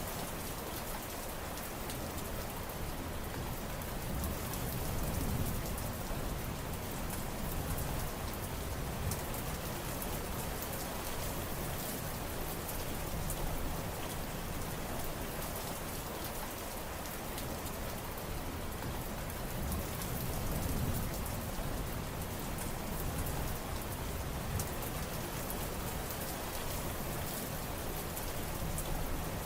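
Steady heavy rain falling, a dense hiss of drops pattering on surfaces, with gentle swells in the low rumble.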